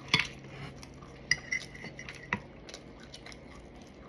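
Cutlery clinking against a plate: a few sharp, separate clinks, one with a brief ring, about a second apart.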